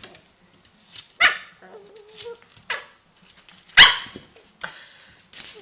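A dog barking in a few short, sharp barks, the loudest about four seconds in.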